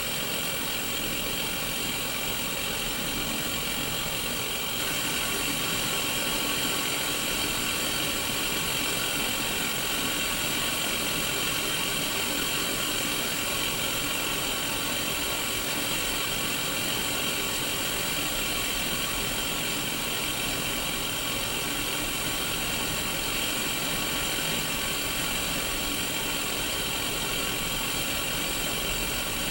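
Static hiss from an untuned Sony Mega Watchman black-and-white mini CRT TV: a steady white-noise rush from its speaker, stepping slightly louder about five seconds in.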